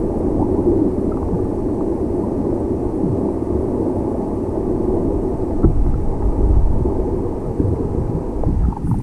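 Steady, muffled low rumble of churning waterfall water, heard from underwater.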